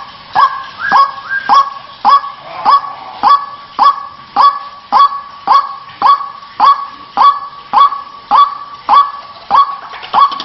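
White-breasted waterhen (ruak-ruak) giving its harsh repeated call, about 1.7 calls a second. Each call starts sharply and holds a steady tone, and the calls keep an even rhythm.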